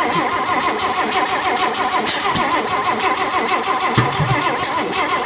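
1958 AMC Rambler's 195.6 overhead-valve six being cranked over by the starter, a fast even churning that does not catch, with one sharper thump about four seconds in. The engine is failing to fire on its first start after restoration, even with gas poured into the carburettor.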